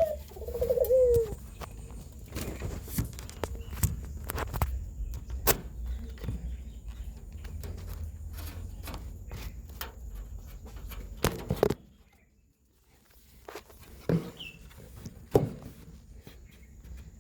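A puter dove cooing once, about a second long, at the start, followed by scattered sharp knocks and clicks over a low rumble that falls away about two-thirds of the way through.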